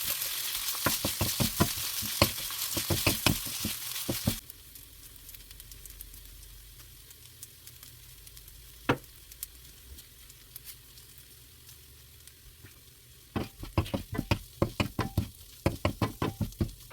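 Fried rice with shrimp stir-frying in a hot pan: sizzling, with a spatula scraping and tapping against the pan. The sizzle stops abruptly about four seconds in. After a quiet stretch with a single knock, rapid spatula taps and scrapes start again near the end, without sizzling.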